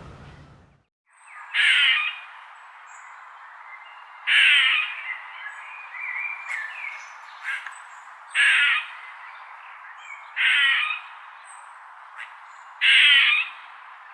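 A bird's harsh, loud calls, five of them about two to four seconds apart, with fainter calls between, over a steady background hiss.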